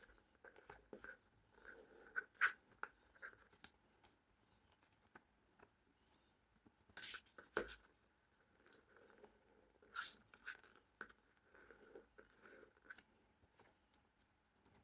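Sheet of paper being handled and folded: faint rustling and crinkling with irregular clicks as creases are pressed, and a few louder crinkles about seven and ten seconds in.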